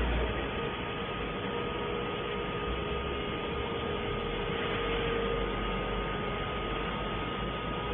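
A 2 kW CNC fiber laser cutting machine running: a steady hiss with a constant hum and low rumble underneath.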